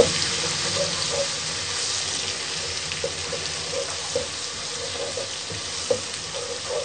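Onions and garlic-ginger paste sizzling in hot oil in a pot as they are lightly browned, with a steady frying hiss. A wooden spatula stirs and scrapes against the pot in short strokes, with a sharper knock at the start and another about six seconds in.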